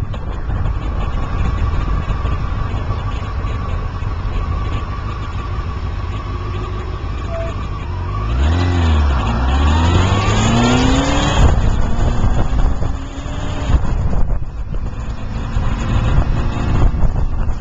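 Car engine and road rumble. Around halfway through, the engine's pitch dips and then climbs steadily for a few seconds before the rumble settles again.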